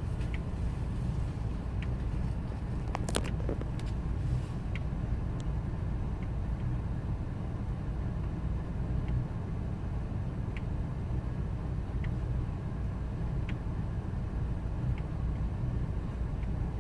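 2000 Ford Expedition's 5.4-litre V8 idling with a steady low rumble and occasional faint ticks, with a short cluster of clicks about three seconds in. The idle is the rough idle the owner is chasing.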